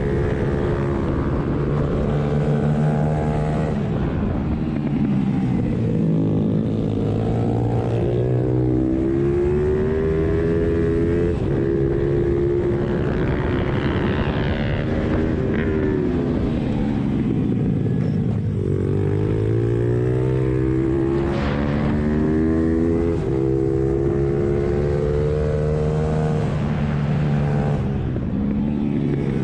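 Pit bike with a 1400cc Suzuki Hayabusa inline-four engine being ridden hard around a track. The engine pitch climbs under acceleration, cuts off sharply at gear changes, and falls away as the revs drop for the corners, several times over.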